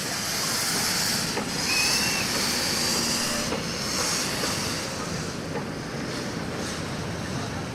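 Steam train running, with a steady hiss and high rushes of steam that swell about once a second, and a brief high squeal about two seconds in.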